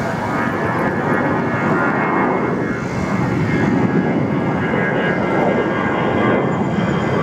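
Jet noise from an Airbus A380-861's four Engine Alliance GP7200 turbofans: a loud, steady rush that builds slightly over the few seconds.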